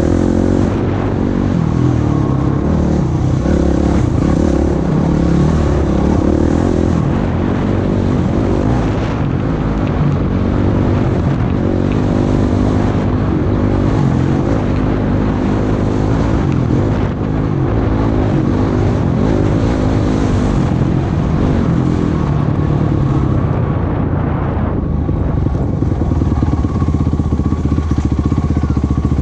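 Off-road vehicle engine running hard while riding, its pitch rising and falling with the throttle, over steady wind and trail noise.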